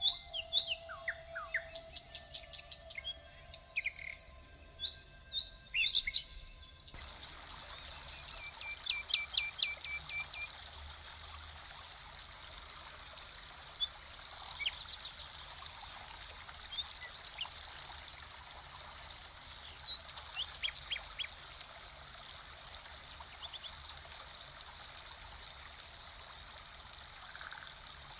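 Songbirds chirping and trilling in a forest-sounds recording. About seven seconds in, a steady rush of running water starts under the birdsong.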